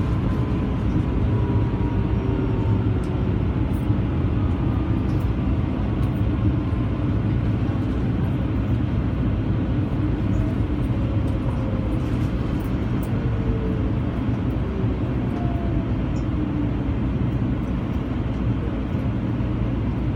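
Metro rail car running, heard from inside the car: a steady, loud rumble of the train under way, with faint whines that slowly slide in pitch.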